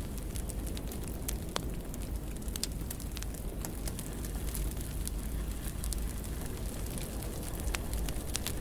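Wood fire burning steadily with a low rumble and frequent sharp, irregular crackles and pops.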